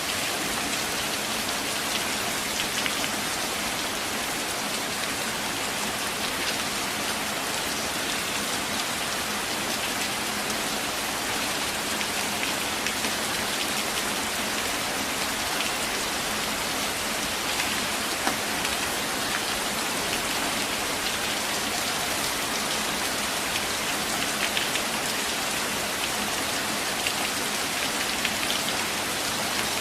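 Steady rain falling in a forest, with scattered drops heard as faint ticks.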